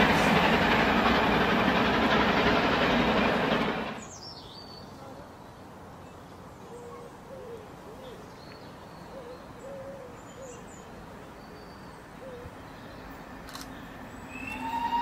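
A train passes at speed with a loud rushing rumble that stops abruptly about four seconds in. Then comes quiet outdoor ambience with faint, scattered bird calls. Just before the end a distant steam locomotive whistle begins, as GWR Castle class 4-6-0 7029 Clun Castle approaches.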